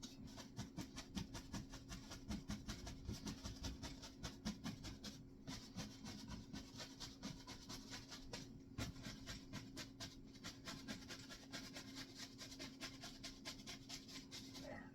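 Oval paintbrush dabbing and scrubbing acrylic paint onto a canvas: a rapid, steady run of soft taps and scratches, several a second.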